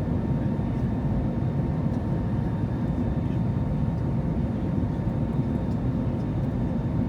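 Steady cabin noise inside an Airbus A321neo in flight: an even low rumble of airflow and engines, with a few faint steady tones above it.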